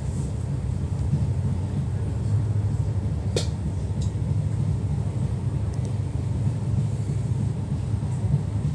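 Steady low rumble of a passenger train running along the track, heard from inside the carriage. A sharp click comes about three and a half seconds in, with a fainter one just after.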